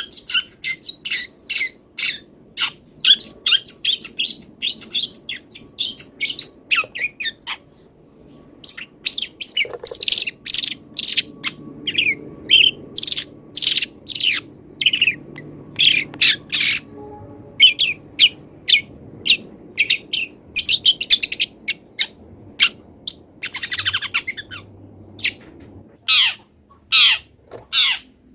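Long-tailed shrike (cendet) singing in a rapid string of short, sharp chirps and calls, its song filled with imitations of wild birds' calls.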